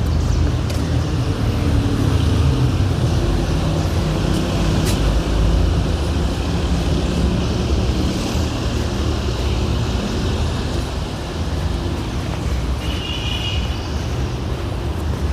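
City street traffic: motor vehicles running and passing with a steady low engine rumble, loudest in the first half. A brief high chirp sounds near the end.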